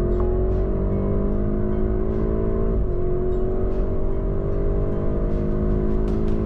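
2022 Porsche Cayenne Turbo GT's twin-turbo V8 under full-throttle acceleration: the engine note climbs steadily, drops at an upshift about three seconds in, then climbs again through the next gear.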